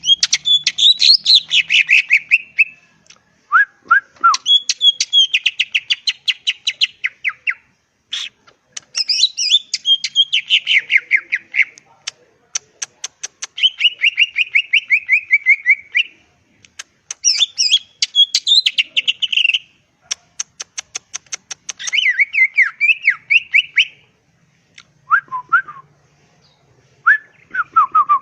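A green leafbird (cucak ijo) in full, vigorous song. It sings a string of loud phrases of rapid, chattering, whistled notes, each a couple of seconds long with brief pauses between them. Near the end come a few short, lower calls.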